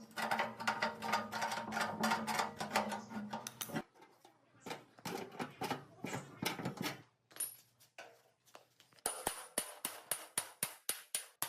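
Metal clinks, taps and knocks from hand-tool work on metal machine parts: a dense clatter at first, scattered knocks in the middle, then a steady run of strikes about four a second near the end.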